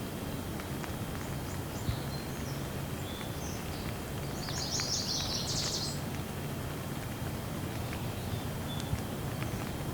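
Steady rain with a few scattered drips, and a bird chirping over it, breaking into a quick high trill about halfway through.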